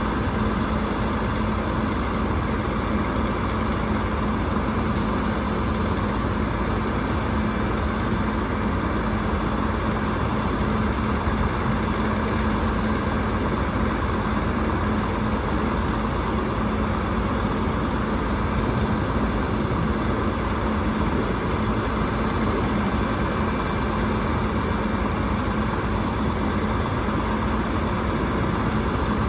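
Rooftop HVAC unit running steadily: a constant low hum under an even rush of air.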